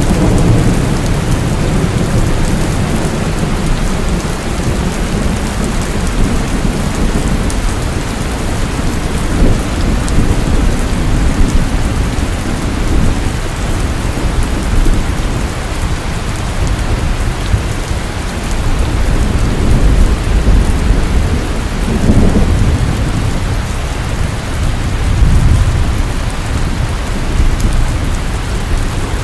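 Steady heavy rain falling, with low rolls of thunder swelling and fading a few times.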